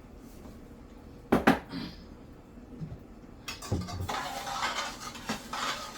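Cooking pot and utensils clattering: two sharp knocks a little over a second in, then continuous scraping and rattling from about halfway on.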